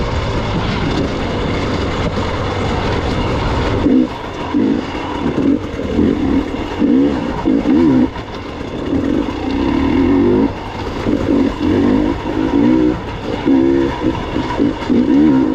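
Gas Gas EX 300 two-stroke dirt bike engine under the rider. It runs steadily at first, then from about four seconds in revs up and down in short throttle bursts with brief lulls between them.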